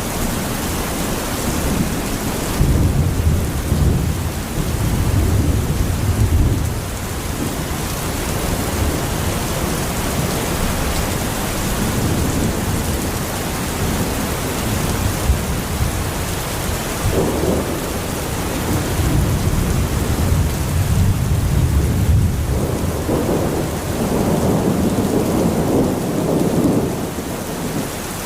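Heavy rainstorm: a steady, loud hiss of rain with deep rumbles swelling and fading several times, about three seconds in and again in the second half.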